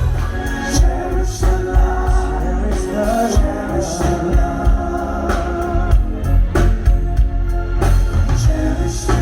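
Live funk and soul band music heard from the audience: sung vocals over a heavy bass line and a steady drum beat.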